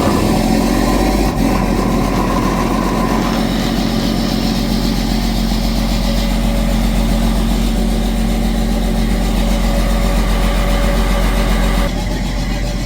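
Farm tractor's diesel engine running steadily at idle just after a hard cold start in 15-degree weather; it caught only weakly before running on.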